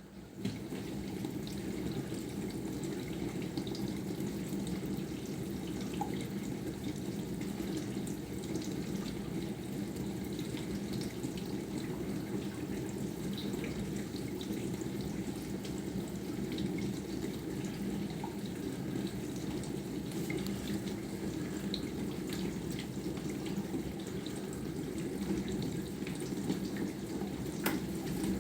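Bosch SMV50E10RU dishwasher's circulation pump starting about half a second in and running steadily, spraying water through the spray arms inside the tub as the wash cycle gets going.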